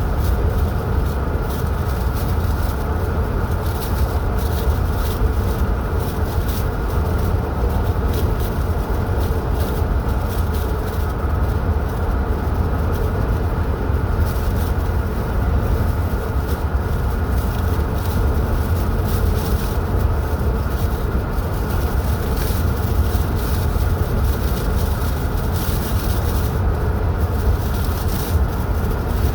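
Car driving at steady speed: a continuous low rumble of tyres and engine with road noise.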